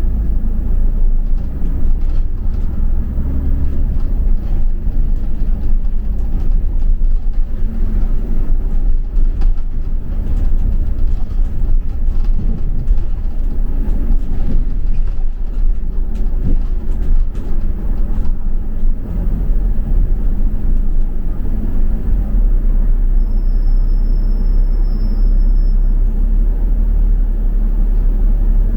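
A double-decker bus in motion, heard from on board: a steady low rumble of engine and road. Near the end a faint thin high tone lasts about three seconds.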